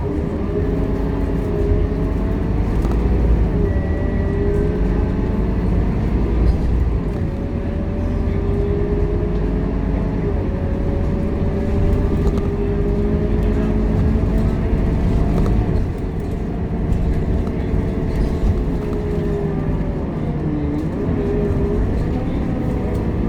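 Scania K230UB Euro V city bus driving, heard on board: a steady low engine rumble with a whining drivetrain tone that rises and falls several times as the bus speeds up and slows down.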